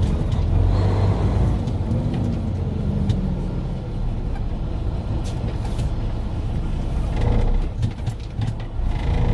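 Semi-truck diesel engine heard from inside the day cab, pulling away under load, its revs rising and falling.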